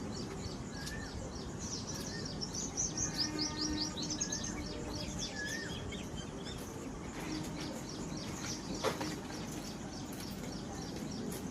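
Several songbirds chirping, with quick runs of high chirps and a short whistled note repeated every few seconds, over a steady outdoor background hiss. A sharp click about nine seconds in.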